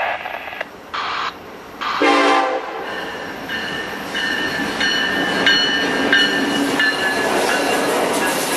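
Norfolk Southern freight train: a short horn blast about two seconds in, then the train running by with high squealing tones from the wheels on the rails building from about halfway.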